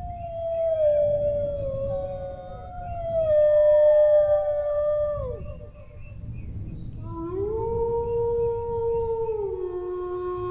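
Dogs howling, two voices overlapping in long, slowly falling howls. After a short pause about six seconds in, a new howl rises, holds, and then settles onto a lower sustained note.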